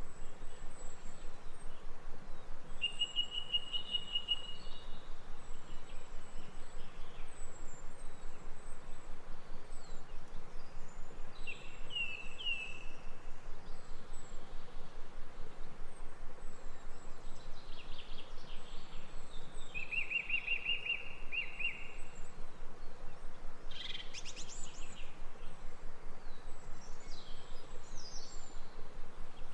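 Birds singing: several short trills and chirps stand out about 3, 12, 20 and 24 seconds in, over a steady outdoor hiss. Faint high chirps repeat all through.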